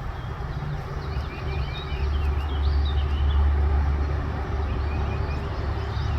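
A loud low rumble that swells for a couple of seconds in the middle, with birds chirping over it.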